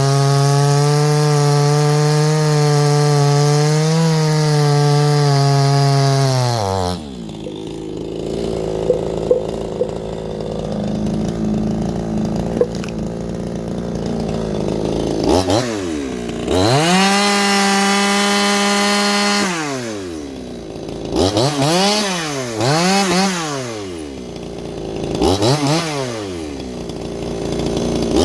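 58cc Chinese two-stroke chainsaw running at full throttle, finishing a cut, then dropping to idle about six seconds in. It is then revved up and held high for about four seconds, followed by several quick throttle blips.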